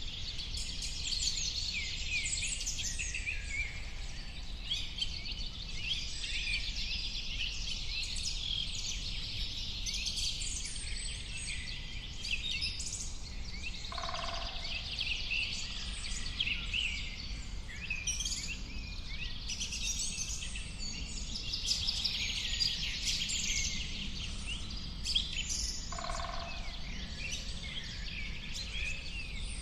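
Many birds chirping and calling at once in a busy, unbroken chorus, over a steady low rumble. Two short, lower-pitched calls stand out, one about halfway through and one near the end.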